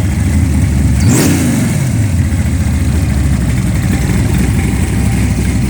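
Hot rod truck engine idling, blipped once about a second in: the revs rise quickly and fall back to idle, then it runs steadily.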